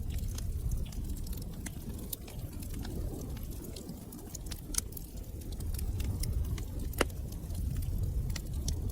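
Wood fire burning in a fireplace: a low steady rumble of flames with irregular sharp crackles and pops, the loudest pops about five and seven seconds in.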